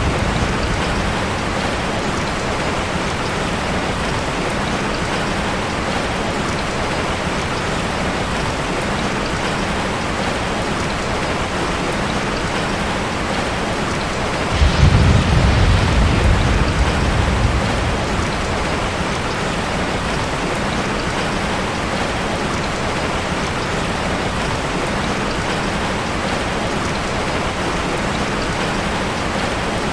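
Ocean waves washing steadily, heard as a constant hiss of surf. About halfway through, a deep rumble swells for about three seconds as a heavier wave breaks.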